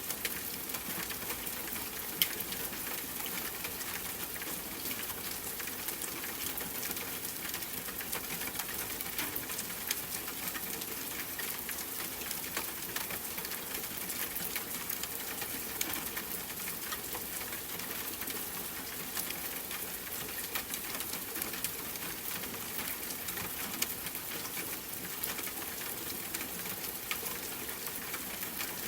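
Steady rain patter with scattered individual drops ticking.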